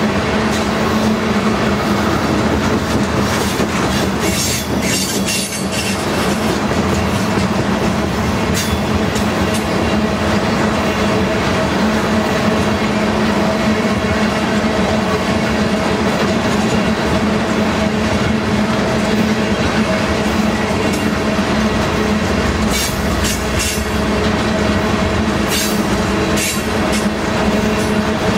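Loaded crude-oil tank cars of a freight train rolling past, their steel wheels rumbling steadily over the rails with a steady hum and clusters of sharp clicks from the rail joints.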